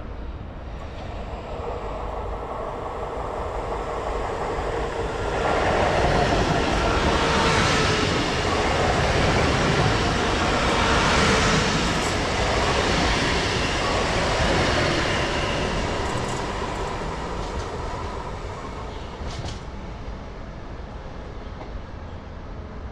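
Double-deck passenger train passing close by. Its rushing running noise builds over the first few seconds, is loudest through the middle, then fades away as it moves off.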